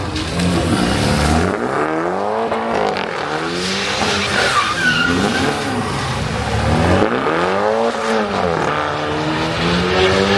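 A car engine revving hard up and down several times, with tyre squeal over it.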